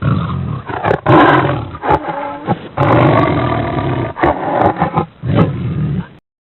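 Lion roaring, a run of low, repeated roars that stops abruptly about six seconds in.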